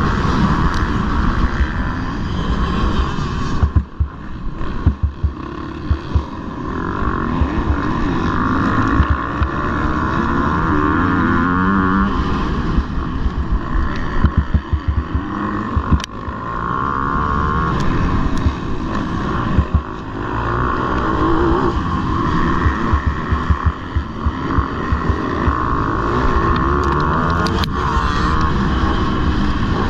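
Motocross bike engine revving hard and easing off again and again as it races, its pitch rising and falling, with scattered sharp knocks and some wind noise.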